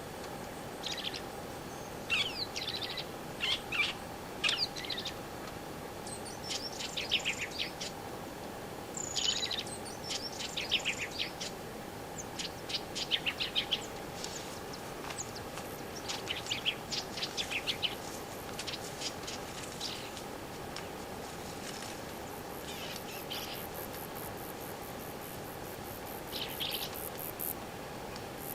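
Wild birds singing and calling in a string of short, repeated chirping phrases over a steady faint drone. Near the end a fast, high-pitched insect pulsing joins in.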